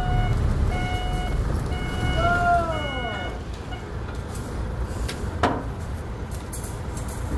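A vehicle's reversing alarm beeping in repeated half-second tones over a low engine rumble as it backs up; the beeping stops about three seconds in. A single sharp knock follows a couple of seconds later.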